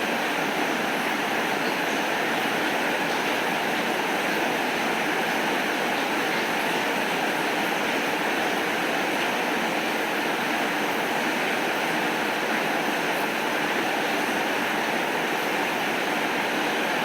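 Steady rainfall, an even rushing hiss at a constant level with no thunder.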